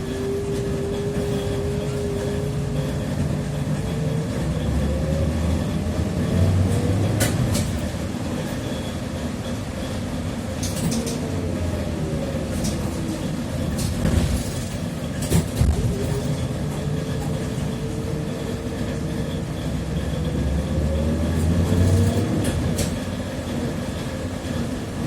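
TrolZa-5275.05 Optima trolleybus under way with its Ishimbay rear axle whining. The whine rises in pitch twice as the trolleybus picks up speed and falls once between, over the low rumble of the DK-213A traction motor and the road. A few short knocks come through around the middle.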